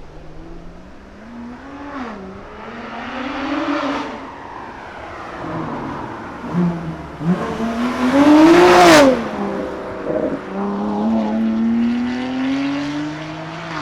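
BMW S55 twin-turbo inline-six with resonated catless downpipes and an equal-length midpipe, heard from outside as the car accelerates hard. The revs climb several times; the loudest run peaks about nine seconds in and drops sharply in pitch as the car goes by, then another long climb in revs follows.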